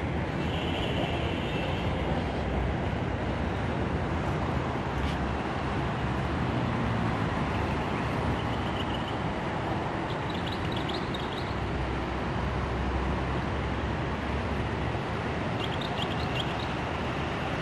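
Steady rumbling city street noise from traffic, with a few short high chirps about ten seconds in and again near the end.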